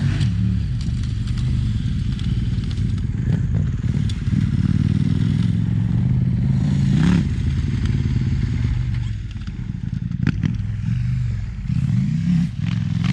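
Dual-sport motorcycle engine on a dirt track, revving up and easing off as it is ridden, with a few sharp clacks near the end.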